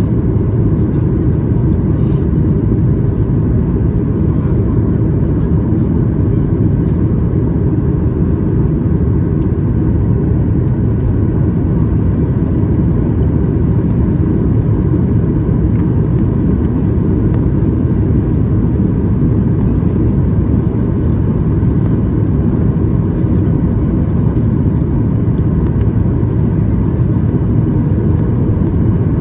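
Steady cabin noise of an American Airlines Boeing 737 MAX 8: a loud, even rumble from its CFM LEAP-1B engines and the airflow, heard from a window seat behind the wing.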